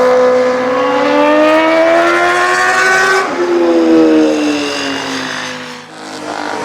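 Ducati Panigale V4 superbike's V4 engine revving up under acceleration, its pitch climbing for about three seconds. The revs then fall away as the throttle closes, and the sound fades briefly near the end.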